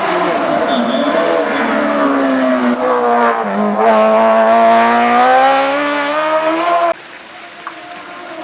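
Hillclimb race car engine at high revs: the pitch dips and then climbs steadily as the car accelerates hard, with some tyre squeal. The sound cuts off suddenly about seven seconds in, leaving a much quieter engine note.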